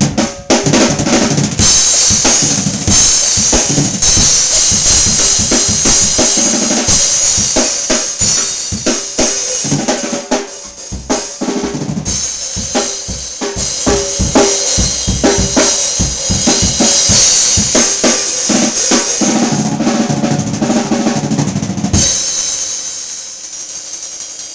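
Drum kit played hard and fast, with kick drum, snare hits and a constant cymbal wash. Near the end the playing stops on one last hit that rings out and fades.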